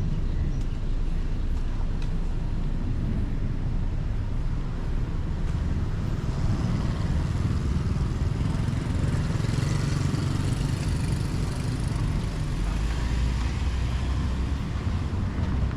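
Steady low rumble of moving vehicles, with an even hiss and no clear single event.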